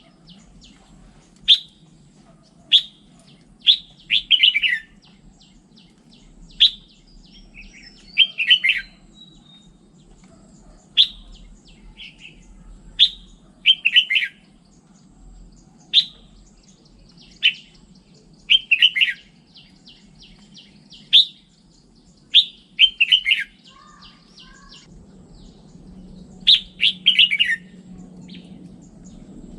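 Red-whiskered bulbul singing: short, bright phrases repeated every second or two, several ending in a quick run of falling notes. A faint low hum runs underneath.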